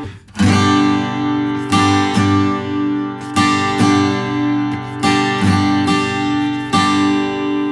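Taylor Builder's Edition 324ce steel-string acoustic guitar strumming a two-bar pattern that alternates G and C chords, with a little-finger pedal note held on the high E string. Accented strums, some single and some in quick pairs, let the chords ring between them.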